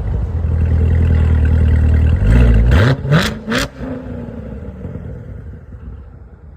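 A car engine running loud, then revving up with a rising pitch about two seconds in, with two sharp cracks just after, before the engine sound fades away.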